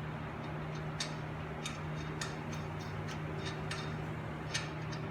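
Irregular light metallic clicks from a lug nut being handled and threaded onto a wheel stud to hold the brake rotor straight on the hub, over a steady low hum.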